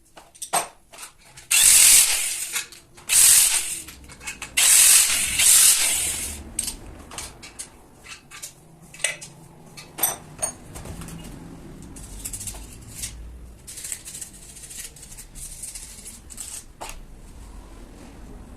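Workshop tool noises: three loud hissing bursts in the first six seconds, then scattered sharp clicks and knocks of metal on metal.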